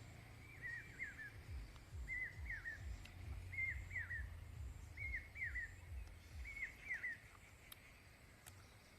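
A bird calling over and over, each call a short phrase of two or three quick falling notes about every one and a half seconds, stopping about seven seconds in. Low thumps and rumble run underneath.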